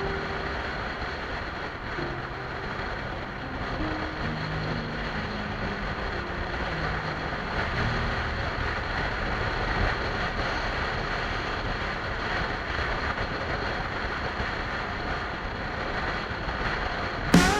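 Motorcycle engine running on the road under heavy wind noise on the microphone, its low note stepping up and down as the speed changes.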